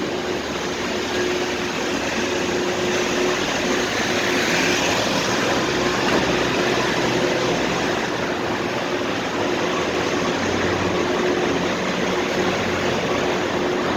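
Steady din of a supermarket parking garage: ventilation hum with a constant droning tone, and the low rumble of car engines that swells and fades a few seconds in and again later.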